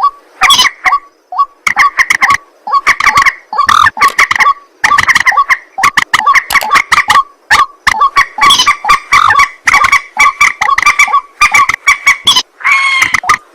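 White-breasted waterhen (ruak-ruak) calling: a long run of loud, harsh, croaking notes repeated over and over with short gaps, crowding together near the end.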